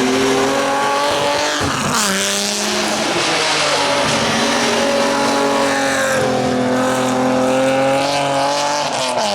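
Rally car engine at high revs as the car passes close by, its pitch dropping sharply about two seconds in. The engine note then climbs and shifts again just before the end.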